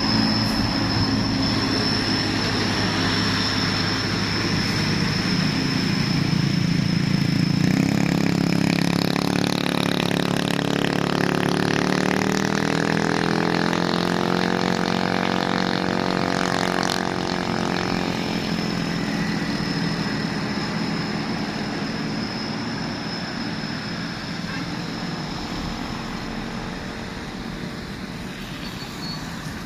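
Heavy truck's diesel engine labouring up a steep grade. Its engine note swells loudest about a third of the way in, bending up and then down in pitch, then fades gradually as the truck moves off.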